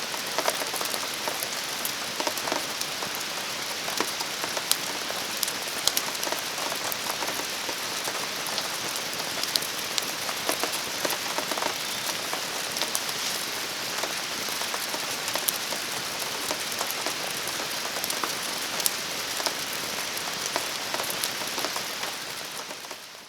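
Steady rain falling on surfaces, with scattered sharp ticks throughout; the sound fades out near the end.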